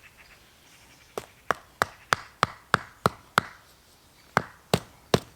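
Tent peg being hammered into the ground with a mallet: a run of about eight sharp knocks, roughly three a second, then three more after a short pause.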